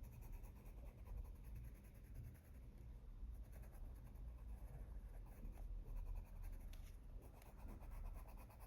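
Faint, steady scratching of a colored pencil layering colour onto paper.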